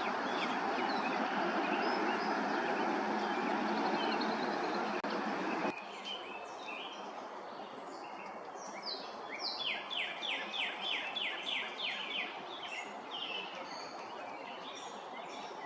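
A steady rushing noise that stops abruptly about six seconds in, followed by a songbird singing: scattered chirps, then a fast run of about eight repeated notes.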